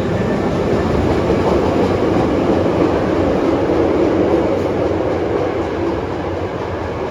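Osaka Metro Midosuji Line subway train moving along the station platform: a loud, steady rumble of wheels on rail, swelling a little midway and easing toward the end.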